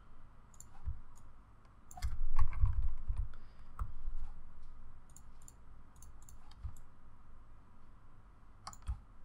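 Scattered sharp clicks from a computer mouse and keyboard as layers are dragged and arranged in Photoshop. A few dull low thumps come about two to three seconds in.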